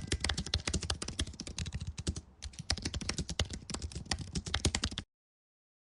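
Rapid computer-keyboard typing, with a brief pause about two seconds in, cutting off abruptly after about five seconds.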